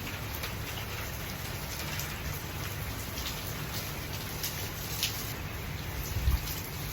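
Steady rain falling, with scattered drops ticking and a dull low thump near the end.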